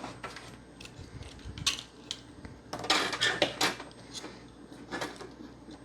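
Light clicks and rattles of Xbox One S hardware being handled and moved on a workbench. They come in short, uneven bursts, busiest around the middle.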